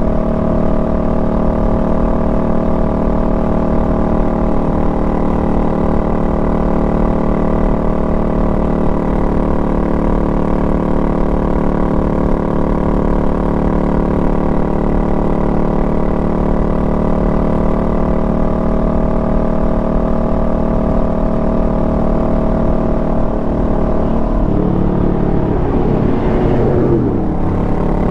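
Honda Rebel 500's parallel-twin engine running steadily at cruising revs while riding, with a low rumble underneath. Near the end the engine note briefly changes pitch as the revs shift, then settles.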